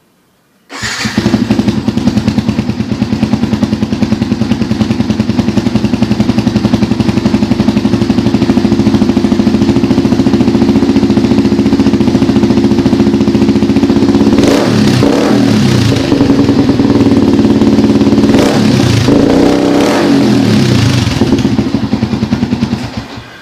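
Yamaha Vixion's single-cylinder four-stroke engine, breathing through a gutted Suzuki Satria FU muffler, catches about a second in and idles loud with a fast, even pulse. It is revved up and let back down twice in the second half, then shuts off just before the end.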